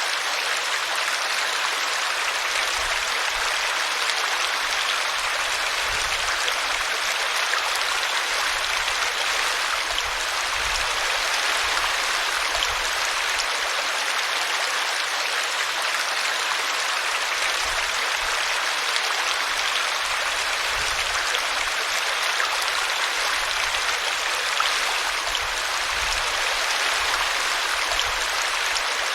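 A small brook running steadily, its water splashing over a tree root in an even, unbroken rush.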